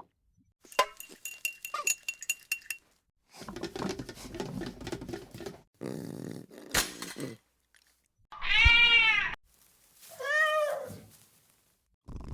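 A cat meowing twice in the second half, each a single arching call that rises and falls in pitch; the first is the loudest sound. Before that come scattered clicks and clatter.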